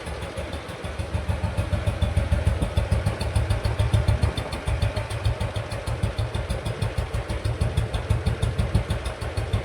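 Old cast-iron Royal Enfield Bullet 350's single-cylinder four-stroke engine idling with an even, rhythmic beat, a little louder from about a second in.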